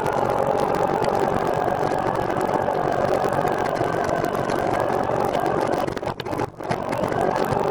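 Steady rolling noise from a recumbent trike on the move: tyre and drivetrain noise mixed with wind on the microphone. It dips sharply for a moment about six seconds in.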